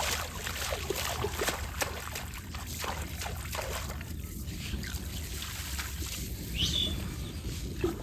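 River water sloshing and trickling, with small irregular splashes.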